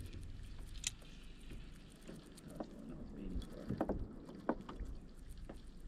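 Quiet on a kayak at sea: faint wind and water with a few light knocks and taps against the kayak, spaced irregularly.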